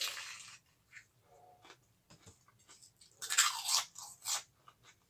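Crisp food being bitten and chewed with loud crunches close to the microphone: a burst of crunching as the mouthful goes in, quieter chewing, then a louder run of crunches a little past three seconds and one more about a second later.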